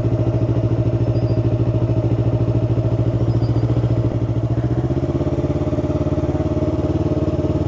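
Yamaha R3's 321 cc parallel-twin engine running steadily under way, heard from the rider's helmet; the engine note shifts slightly about five seconds in.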